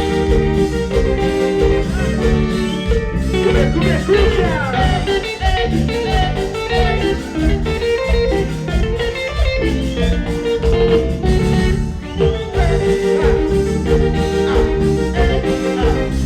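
Live band music with a steady beat and sustained melodic tones, with some sliding notes about four seconds in.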